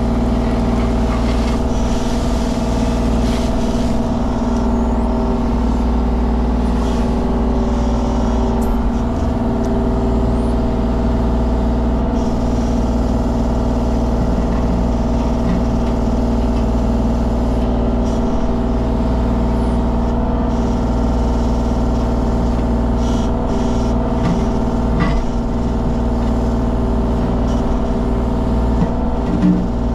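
Mini excavator's diesel engine running steadily under load, with a few brief knocks from the digging near the end.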